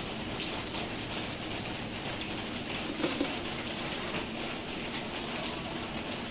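Steady patter and hiss of falling water, with a couple of brief knocks about three seconds in.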